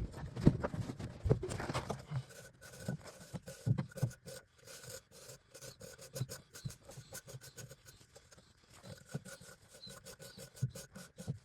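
Scraping and scratching strokes of a brush or tool being worked over a furnace's secondary heat exchanger to clean it, irregular and uneven, with a faint steady tone underneath from about two seconds in.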